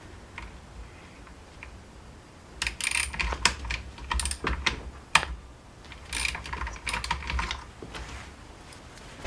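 Quick clicks and rattles of a string trimmer's small parts and housing pieces being handled and fitted, in a dense run from a couple of seconds in until shortly before the end.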